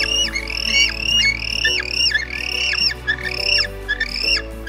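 Penguin squawking calls, short, high and repeated about twice a second, each call ending in a sharp drop in pitch. Background music with sustained low chords plays underneath.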